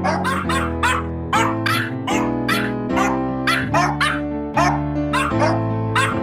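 Dog barks sampled and pitched to carry a song's melody, two or three short barks a second over sustained backing chords.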